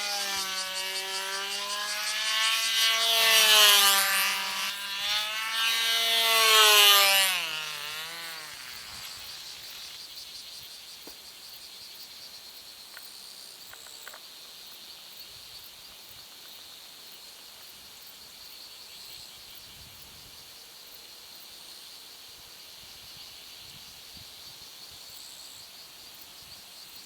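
Control-line model plane's small engine running at a high pitch that wavers up and down with each lap, louder twice as the plane passes. About seven to eight seconds in its pitch sags and the engine cuts out, leaving only faint background noise.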